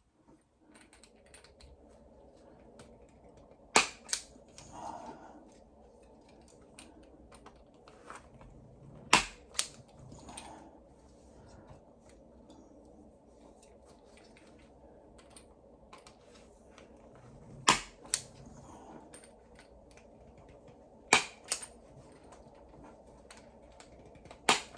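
Spring-loaded impact punch-down tool snapping as it seats Cat6 conductors into a data module, five sharp snaps several seconds apart. Small clicks and handling of the wires come between the snaps.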